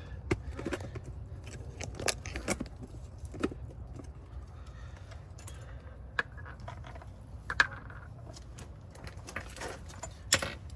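Scattered light metallic clicks and clinks of hand tools working on a car's front suspension, over a steady low hum.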